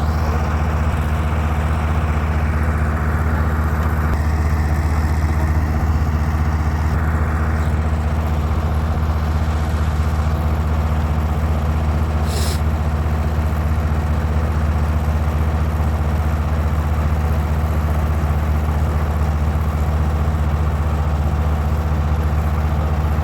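Tractor engine idling steadily at a constant low pitch, with one short click about halfway through.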